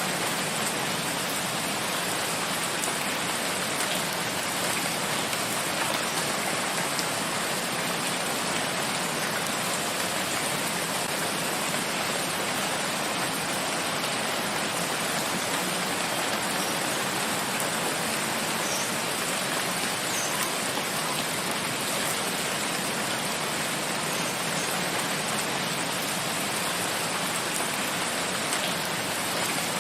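Steady rainfall in a forest, an even hiss of rain with no breaks or changes.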